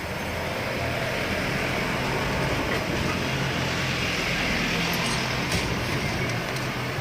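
A running vehicle engine: a steady low hum under a hissing wash of noise, which grows louder over the first couple of seconds and holds.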